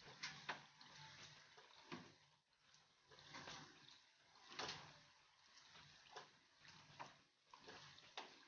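Faint crackling and popping of gram-flour pakoras frying in hot oil in a kadhai, a few stronger pops standing out from a light, uneven sizzle.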